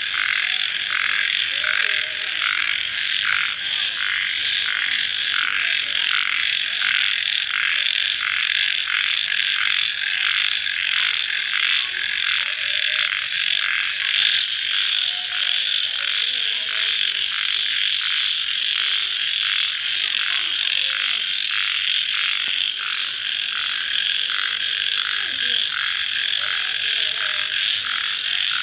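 Dense night chorus of crickets, a steady high trill with a regular pulsing in it, unbroken throughout.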